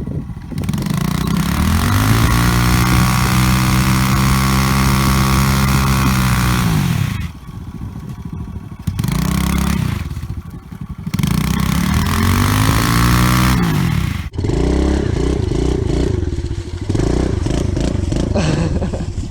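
Pitbike engine revving hard, its pitch climbing and holding for several seconds. The throttle is cut about seven seconds in and again around ten seconds, then it revs up again before dropping to a lower, uneven run for the last five seconds.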